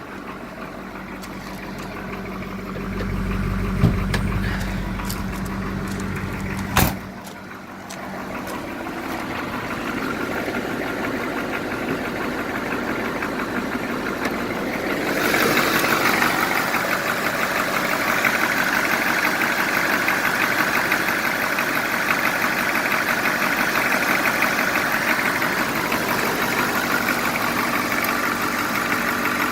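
GM 5.7-litre diesel V8 of a 1981 Cadillac Eldorado running at high idle while still warming up. Two sharp knocks come about 4 and 7 seconds in, and about halfway through the engine's sound turns louder and brighter and stays so.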